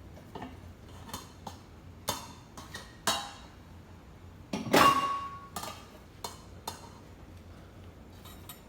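Dishes and utensils knocking and clinking in a kitchen: a string of separate short knocks, the loudest about halfway through, ringing briefly.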